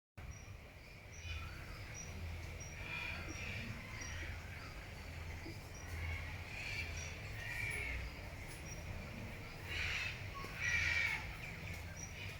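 Harsh crow-like animal calls in several short bouts, the loudest two near the end, with a faint high chirp about once a second over a steady low rumble.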